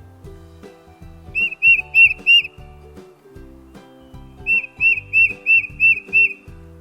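Tufted titmouse singing: clear whistled notes repeated about three a second, in a series of four and then a series of six, over soft background music.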